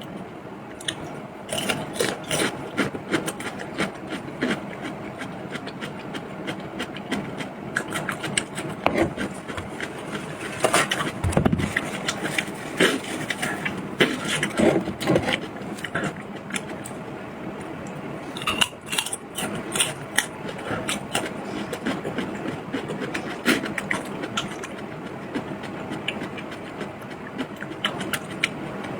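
Close-miked eating sounds: chewing and biting, with irregular wet clicks and scrapes throughout, denser about 11 seconds in and again about 19 seconds in.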